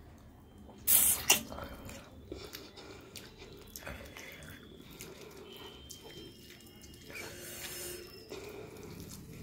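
Close-up mouth sounds of chewing a mouthful of rice and chicken curry, with a loud wet smack about a second in, followed by soft clicks and squelches as fingers mix rice with curry on a plate.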